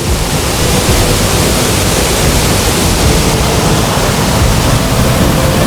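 Dry Falls on the Cullasaja River pouring at high flow after heavy rain, heard from underneath the falls: a loud, steady roar of falling water.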